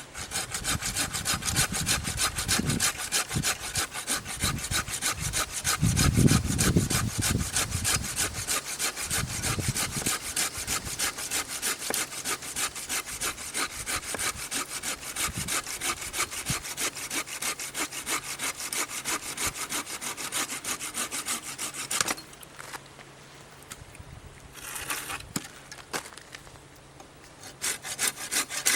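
Hand saw cutting through wood with quick, regular strokes. It stops about twenty-two seconds in, saws briefly again a few seconds later and resumes near the end. A few low thumps come around six seconds in.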